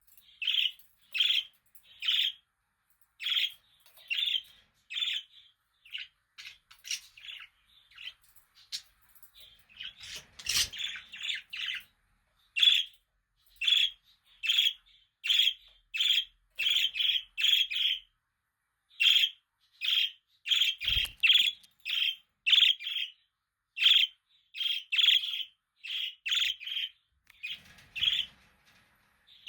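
Budgerigars chirping: a dense run of short, high chirps, about two a second, with a couple of brief low thumps, about ten and twenty-one seconds in.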